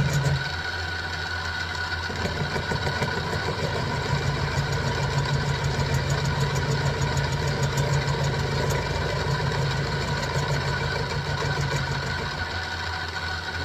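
Sieg X2 mini milling machine running with a steady motor and geared-head hum while the cutter works through 1045 steel. A rougher cutting sound rides on the hum from about half a second in, easing near the end.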